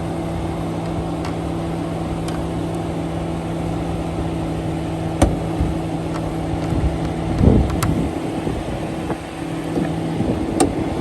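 Mercedes E450 wagon's 3.0-litre inline-six engine idling steadily with a low hum. There is a sharp click about five seconds in and a brief clatter a couple of seconds later.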